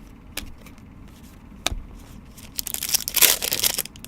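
Trading card pack wrapper being torn open and crinkled: a couple of light clicks, then a dense rustling tear in the last second and a half.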